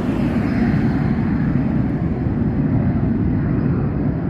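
Small airplane taking off down the runway, its engine heard as a steady rumble.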